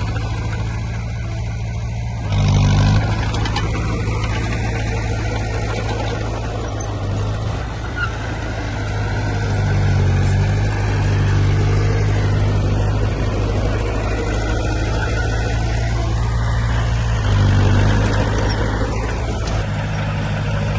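Diesel engine of heavy earthmoving machinery running steadily under load, swelling briefly louder about two seconds in and again near the end.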